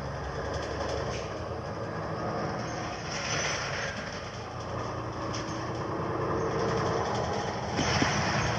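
New Flyer Xcelsior city bus running with a steady, fairly quiet drone, with two short bursts of hiss, about three seconds in and near the end.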